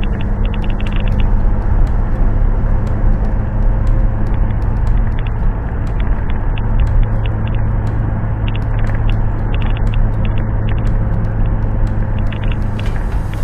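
A motor vehicle running with a steady low engine hum and road rumble, and light rattling clicks throughout.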